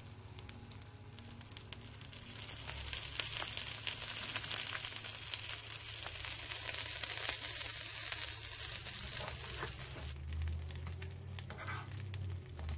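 Sauce-topped eggplant slices sizzling and crackling in an oiled frying pan. The sizzle grows louder a couple of seconds in and eases slightly near the end.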